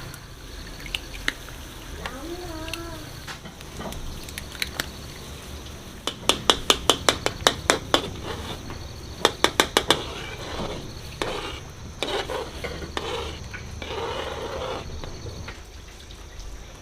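Kitchen clatter: a utensil tapping rapidly against a bowl or pot in two quick runs of about seven clicks a second, with dishes and pans being handled around them.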